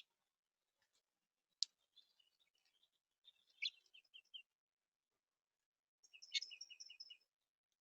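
Small songbirds at a backyard feeder giving short, high chirps. One sharp note comes about a second and a half in, and quick runs of repeated notes come around the middle and again near the end.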